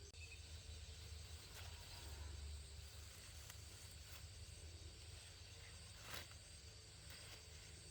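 Near silence: faint outdoor background with a steady, rapidly pulsing insect trill and a few soft clicks, the clearest about six seconds in.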